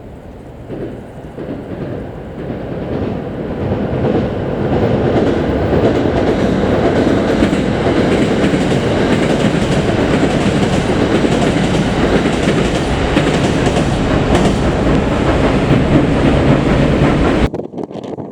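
Limited express electric train running past at speed, its noise building over the first few seconds and staying loud and steady until it cuts off abruptly near the end.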